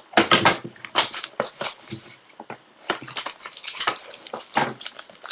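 Trading card packaging being handled and opened: a quick, irregular run of crinkling, crackling and tearing noises.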